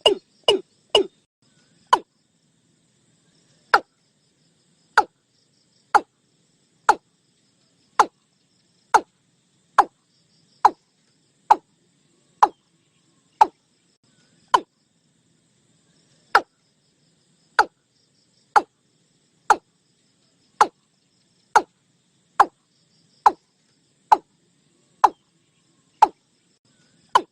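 A watercock calling: a quick few short, hollow notes at the start, then one note about every second, each dropping in pitch. This is the repeated call used as a lure recording for the bird.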